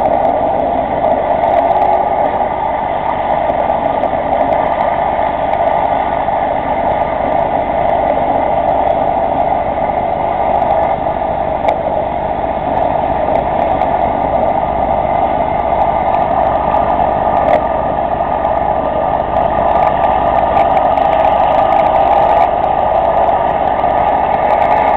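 Robinson R44 helicopter running, its piston engine and rotors making a loud, steady drone that holds an even pitch throughout.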